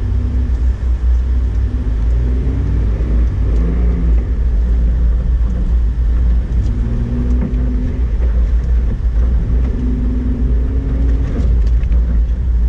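2008 Honda Ridgeline's 3.5-litre V6 and tyres on snow while driving: a steady, loud low rumble, with the engine note rising and falling as the truck pulls along.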